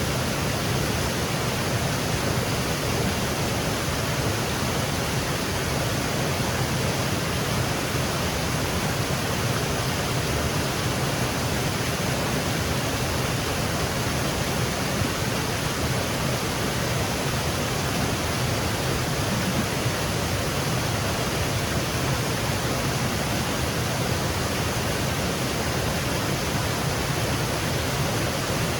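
Small woodland waterfall: water cascading in a steady, even rush with no breaks.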